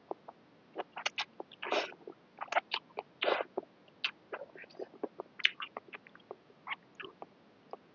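Close-up eating noises of a person eating a bowl of Thai boat noodles: irregular wet mouth clicks and smacks from chewing, with a few longer noisy slurps.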